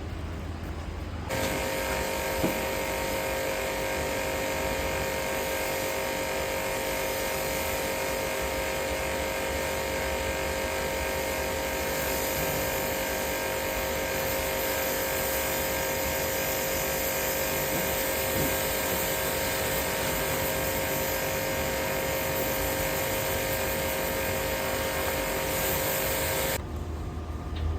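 An electric motor-driven machine starts about a second in, runs at a steady pitch with a whine and a hiss, and stops shortly before the end.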